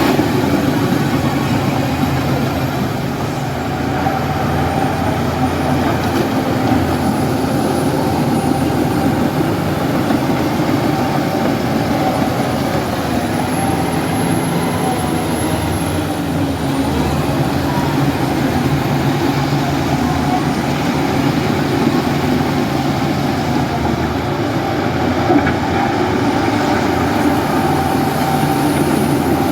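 Heavy diesel engine of earth-moving machinery running steadily at working speed, with a faint high whine above it that drifts in pitch.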